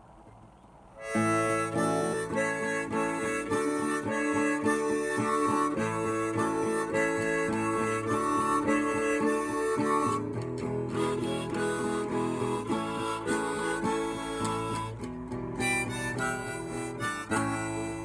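Harmonica and strummed acoustic guitar playing an instrumental intro, starting about a second in.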